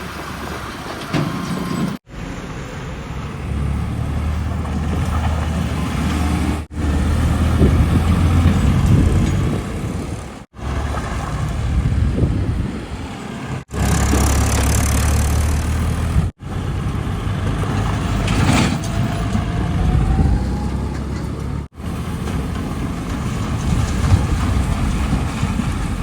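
Heavy diesel engines of construction machinery running with a steady low rumble, in a series of short segments that each cut off abruptly and restart with a slightly different engine sound.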